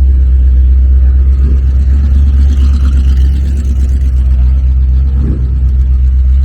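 A car engine idling close by: a loud, steady low drone.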